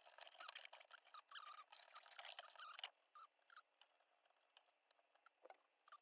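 Faint scratching and rustling of electrical wire being pulled back through a hole. Many small clicks for about three seconds, then only a few scattered ones.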